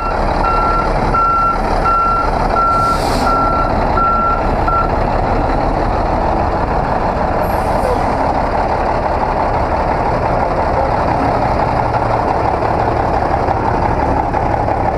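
A vehicle's backup alarm beeping steadily, about one and a half beeps a second, which stops about five seconds in, over the steady running of a truck's diesel engine. A short hiss of air comes about three seconds in.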